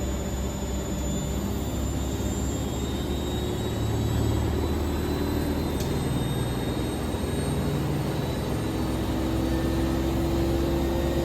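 A steady mechanical whir with a low hum underneath, even and unbroken throughout.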